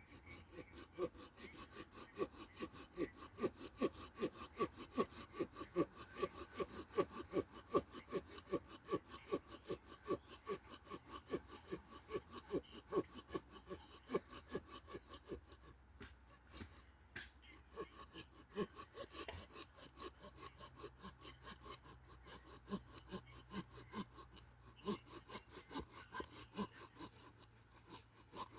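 Hand saw cutting through wood in steady back-and-forth strokes, about three a second, lighter in the second half.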